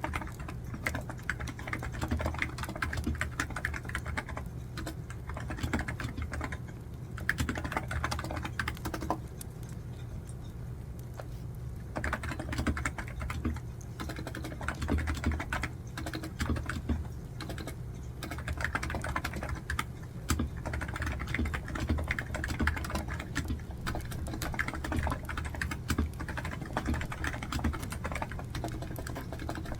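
Typing on a computer keyboard in fast runs of key clicks, broken by short pauses; the longest pause comes about nine seconds in and lasts a few seconds.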